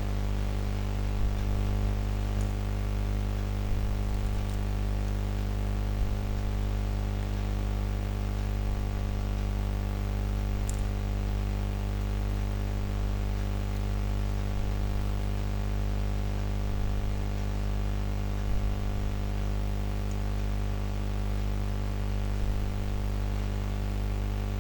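Steady electrical hum with many overtones over a constant hiss, with a few faint small clicks.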